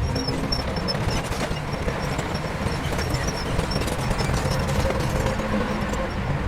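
Heavy diesel construction machinery running steadily, a deep engine rumble with a rapid rattling clatter.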